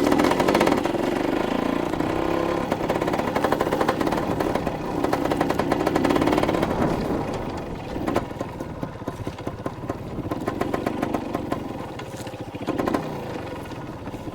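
Dirt bike engine running just after being bump-started, revving up and down several times.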